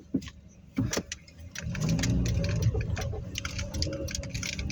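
Car engine and road noise heard from inside the moving car: quiet at first with a few light clicks, then swelling a little under two seconds in to a steady low rumble.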